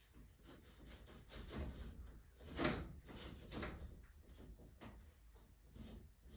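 A series of scrapes and knocks from objects being handled, with one louder scrape about two and a half seconds in.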